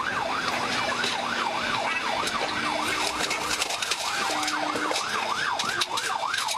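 Police car siren in fast yelp mode, sweeping rapidly up and down in pitch about three times a second.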